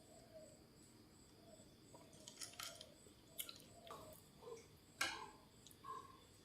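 Faint eating sounds: a few short crisp bites and mouth clicks, the loudest about five seconds in. Behind them, insects chirp in a steady pulsing rhythm.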